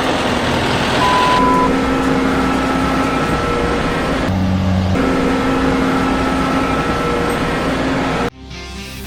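A large vehicle's engine running steadily under a dense mechanical noise, with abrupt changes about four seconds in and again near the end, where the footage cuts.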